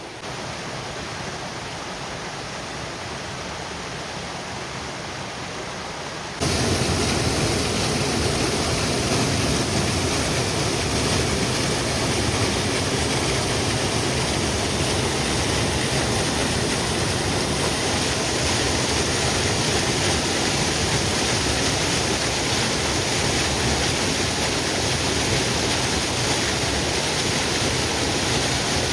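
Waterfall rushing in a steady roar of falling water, suddenly much louder about six seconds in and steady after that.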